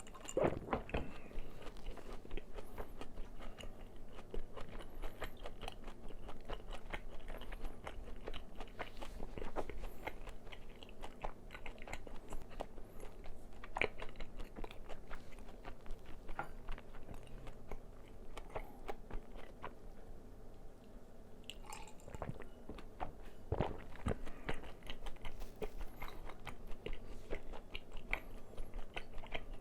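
Close-miked crunching and chewing of crispy fried chicken: crackling bites into the fried coating and steady chewing, with a short lull about two-thirds of the way through.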